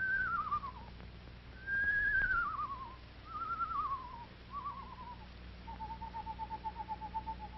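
Screech owl calling: four quavering whinnies that each fall in pitch, then a long level trill near the end.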